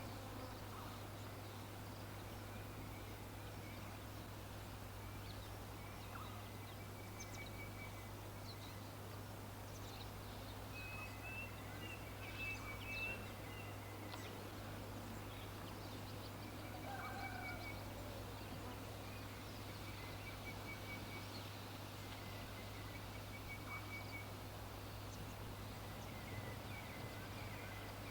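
Birds calling: scattered short chirps and rapid trilled series of notes, over a steady low hum.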